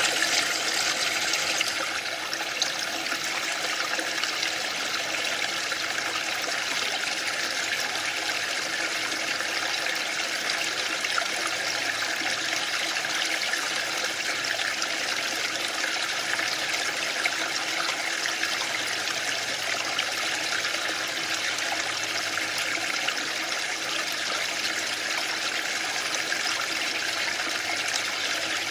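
Waterfall: a steady rush of falling water, a little louder and brighter for the first couple of seconds, then even.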